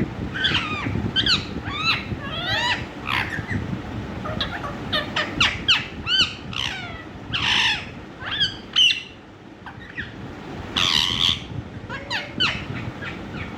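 Ringneck parakeet calling in a rapid string of short, sweeping chirps and squawks, with two louder, harsher screeches about seven and eleven seconds in.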